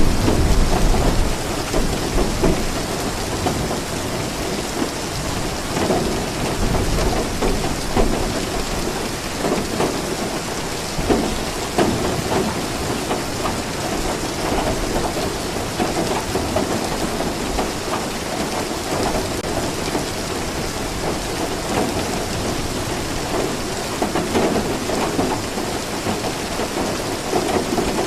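Steady heavy rainfall, with a deep rumble of thunder near the start.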